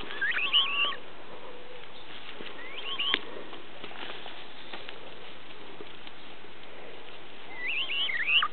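Bird chirping in three short bouts of high, quickly wavering calls: one at the start, one about three seconds in, and one near the end.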